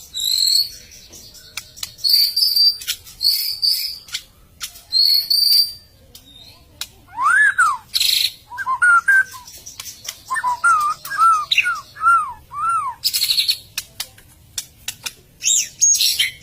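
White-rumped shama singing a varied song: high clear whistles, then a run of arching lower whistled notes, mixed with harsh rasping notes and sharp clicks.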